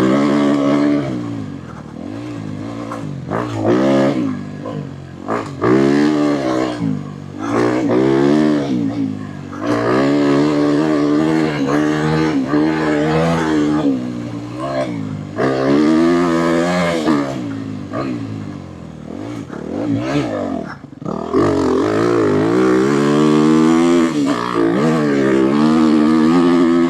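Dirt bike engine ridden hard on a trail, revving up and dropping back again and again as the rider works the throttle and shifts, with a brief drop in revs about three quarters of the way through.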